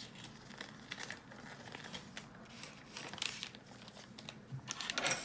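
Light, irregular crinkling and rustling of a blind-bag wrapper being handled as a small toy is pulled out of it.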